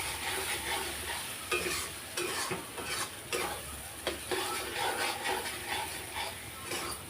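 Spice masala sizzling in oil in a kadhai while a spoon stirs it, with irregular scrapes and clicks of the spoon against the pan.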